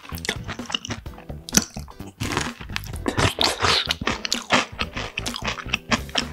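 Close-miked crunching and chewing of a crispy breaded, deep-fried sweet potato cheese pork cutlet (donkatsu), a rapid run of crackling bites, with soft music underneath.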